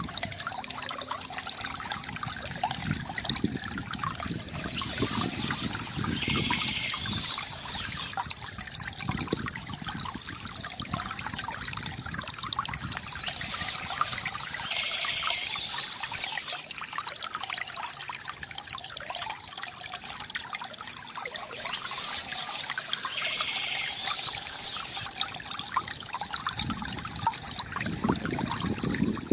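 Stream water trickling and flowing steadily, with a bird singing short high phrases that come back roughly every eight seconds.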